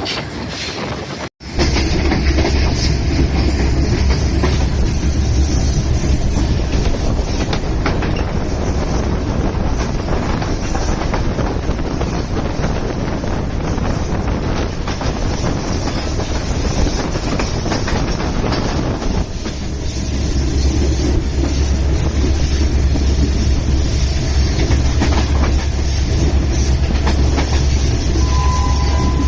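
Passenger train running along the track, a steady rumble with wheels clacking over the rail joints. The sound cuts out briefly about a second in, and the low rumble grows heavier past the midpoint.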